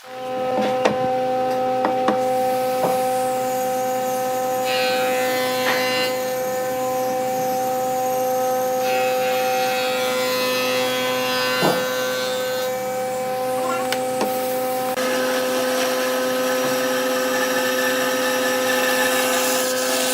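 Wood lathe running with a steady motor hum while a turning tool scrapes the spinning wood off and on, more continuously in the last few seconds, with one sharp knock about two-thirds of the way through.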